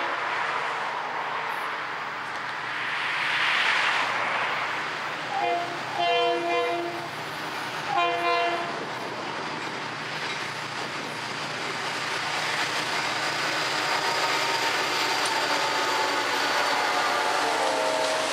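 Freight train's diesel locomotive horn sounding three blasts about five to nine seconds in, the first one short. Then the train passes close by, its steel wheels running and clattering over the rail joints in a steady rumble, with a faint high squeal near the end.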